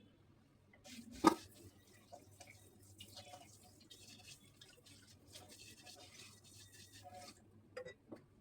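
Faint kitchen handling sounds: a single sharp knock about a second in, then soft scraping hiss with many small clicks, a brief pause, and two more clicks near the end.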